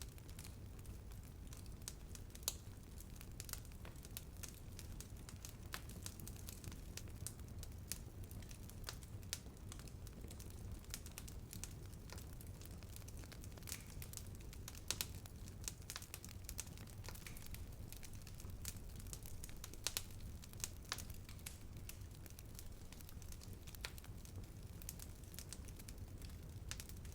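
Wood fire burning with a faint low rumble and irregular sharp crackles and pops, a few louder snaps standing out.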